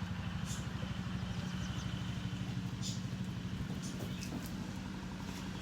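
A small engine or motor running steadily, a low hum with a fast even pulse.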